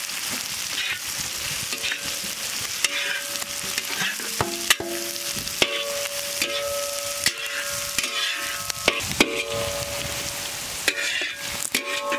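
Chopped onions sizzling in hot oil in a large iron kadai, stirred with a long metal spatula that scrapes and clicks against the pan. The scraping sets up repeated ringing metal tones that come and go from about two seconds in.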